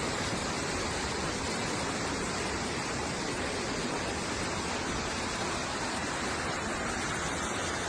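Floodwater rushing: a steady, even roar of flowing water with no change throughout.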